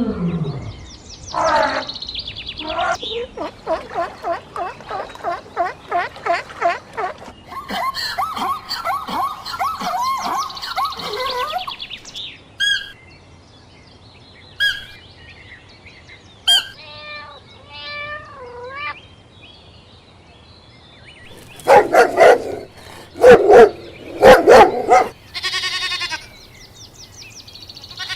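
A sequence of different animal calls: about ten seconds of rapid, evenly repeated calls, then scattered short chirps, and several loud short calls near the end.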